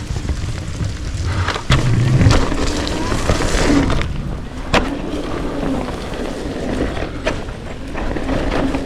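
Riding noise on a wet dirt trail: wind rumbling on the microphone and tyres rolling over wet ground, with a few sharp knocks from bumps, one about a second and a half in and one near the middle.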